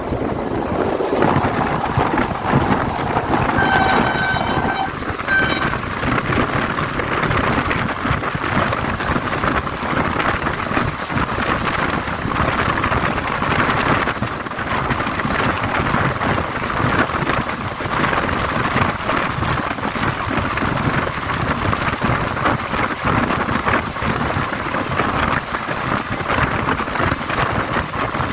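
Shah Latif Express passenger train passing at speed. About four seconds in the locomotive's horn sounds, a longer blast and then a short one. The steady running noise of the train going by fills the rest.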